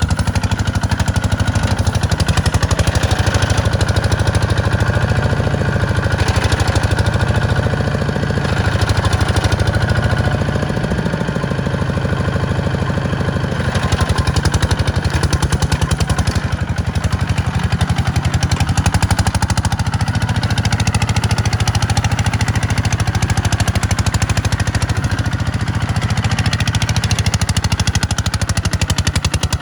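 Farm tractor engine running steadily with a fast, even beat, pulling a plow through sandy ground.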